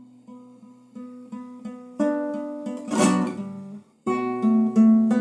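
Solo acoustic guitar playing an instrumental interlude. It starts with soft picked notes, then strummed chords come in louder about two seconds in, with a short break before the strumming picks up again near the end.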